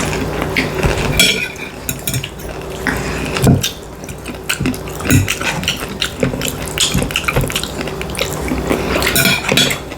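Metal cutlery clinking and scraping against a plate in irregular taps while a meal is eaten.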